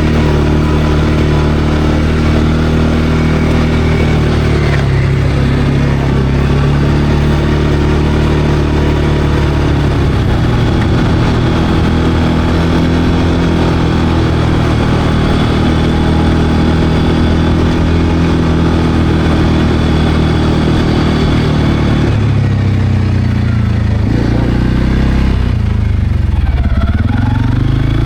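CFMOTO CForce 520L ATV's single-cylinder engine running under way at a steady pace. Near the end the engine note drops and climbs again twice as the quad slows and picks up speed.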